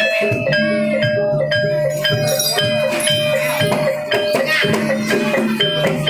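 Javanese gamelan music accompanying a barongan dance: bronze keyed and gong-chime instruments struck in a quick, even rhythm over a steadily held high tone.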